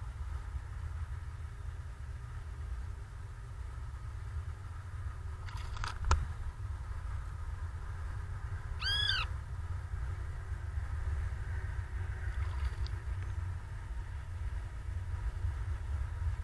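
Steady low rumble on an outdoor microphone, with a sharp tap about six seconds in and a single short arched bird call, rising then falling, about nine seconds in.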